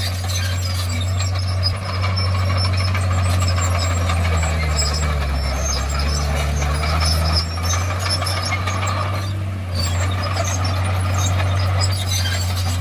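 Heavy diesel engine of a Komatsu D51PX bulldozer running steadily, with scattered rattling and clanking over the engine's low hum.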